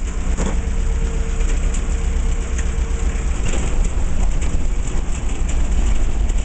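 Mufflermobile novelty car driving along: a steady low engine rumble under a continuous rush of wind and road noise, with a faint steady hum over it for the first three seconds or so.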